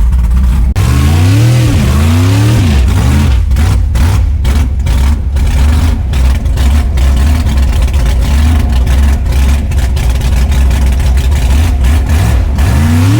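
Truck engine revving up and falling back a couple of times, then running hard under a steady low rumble, with a few sharp knocks early on.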